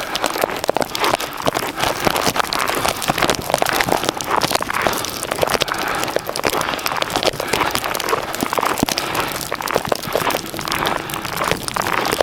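Footsteps crunching through fresh snow, with wind on the microphone: a steady crackling, crunching noise.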